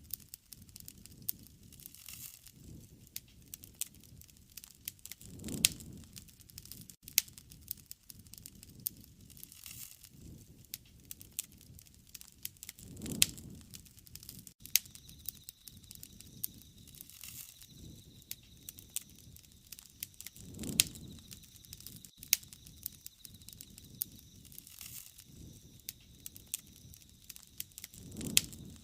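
Wood campfire burning, crackling with frequent sharp pops and snaps. A low rushing swell rises and fades about every seven to eight seconds.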